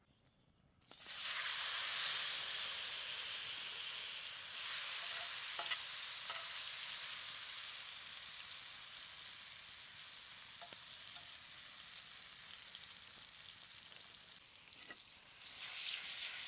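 Stuffed mushrooms searing in a hot pan over an open fire: the sizzle starts suddenly about a second in, as they hit the hot fat, then slowly dies down with a few small pops and swells again near the end.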